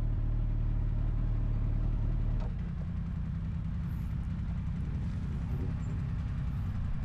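Kawasaki GTR 1400's inline-four motorcycle engine running at low revs while the bike is parked up. About two and a half seconds in there is a click, and the engine note drops to a slightly quieter, lower idle.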